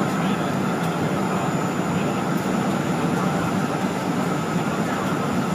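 Steady jet engine and airflow noise heard inside an airliner's cabin, an even rumble with a faint high whine that holds constant in level.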